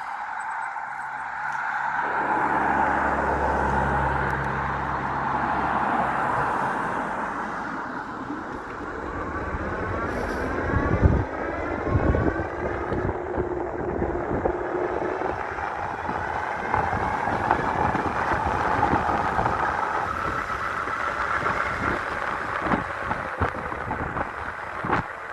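Riding noise from a 5000-watt electric bike under way: a continuous rush of tyres and air with a low hum a couple of seconds in, and two sharp jolts about eleven and twelve seconds in.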